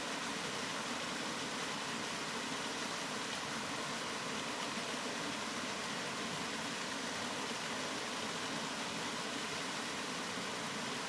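Steady rain: an even, unchanging hiss.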